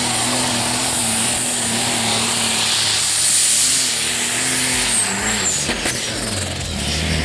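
Modified pulling tractor running hard at full power, with a high whine held steady; about five seconds in the power comes off, the whine falls away in pitch and the engine drops to a lower, steadier note.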